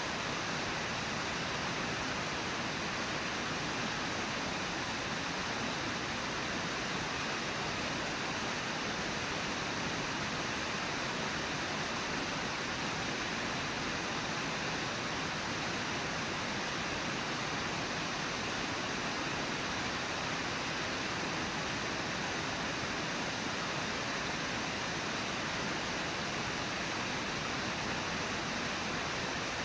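Brooks River rushing over and below Brooks Falls: a steady, even rush of water with no change.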